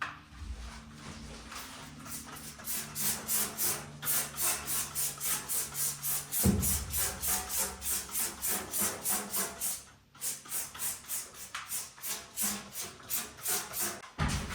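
Rhythmic back-and-forth rasping strokes of a hand tool worked on wood or board, about four strokes a second, stopping briefly about ten seconds in.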